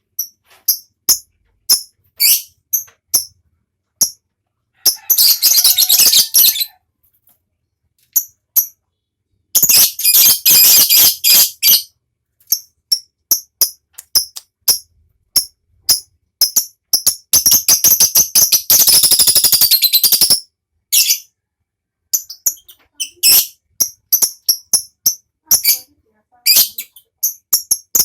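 Lovebird singing: short sharp high chirps broken by three long, rapid rattling trills (the 'ngekek'), starting about five, ten and seventeen seconds in, the last one about three seconds long.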